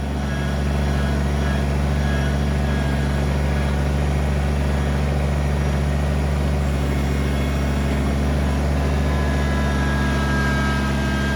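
Kubota BX23S sub-compact tractor's three-cylinder diesel engine running steadily as the tractor drives, with a faint whine near the end.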